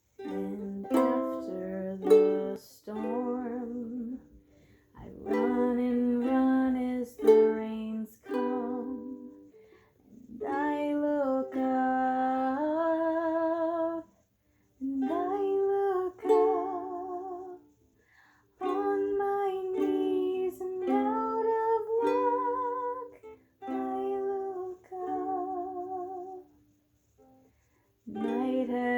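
Ukulele strummed in a slow instrumental intro: chord phrases of a few seconds each, with short pauses between them.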